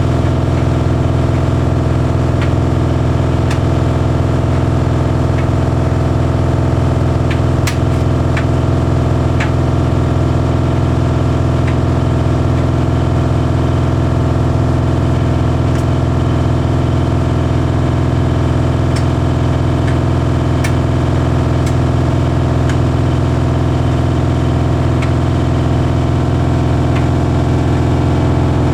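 Bosch Series 6 heat pump tumble dryer running mid-cycle: a steady, loud hum from the compressor and drum motor, with steady low tones. Occasional faint clicks sound over it.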